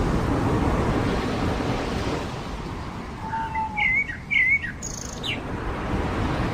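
Surf washing on a beach, easing off about two seconds in. Midway a bird calls: a short level note, then two quick warbling phrases.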